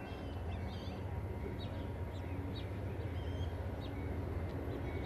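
Birds chirping and calling in short, scattered notes over a steady low rumble that grows slightly louder near the end.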